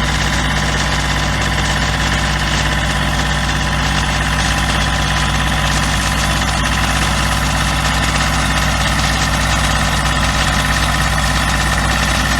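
Engine of a large 6- to 8-inch dewatering pump running steadily at a constant speed, pumping out the pond of water behind the cofferdam.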